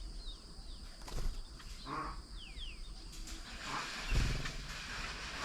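Birds at a garden bird table calling, with short, thin downward-sliding whistles. About four seconds in comes a louder, brief, low rough animal call.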